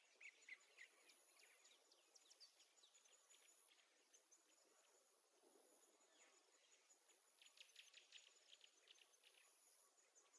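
Very faint nature ambience: scattered small bird-like chirps, with a thin, high insect-like tone that comes and goes.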